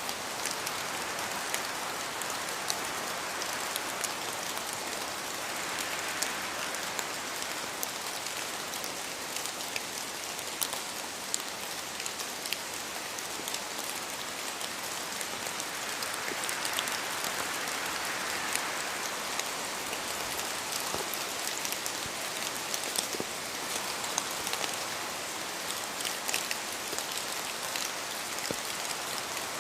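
Steady rain falling in a forest, a continuous hiss dotted with many sharp ticks of individual drops.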